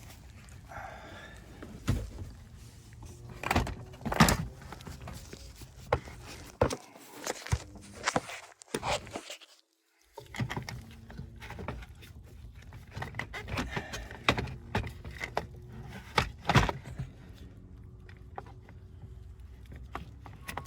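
Scattered clicks and knocks of hand work on the hood latch and its release cable, with a brief dropout about halfway through.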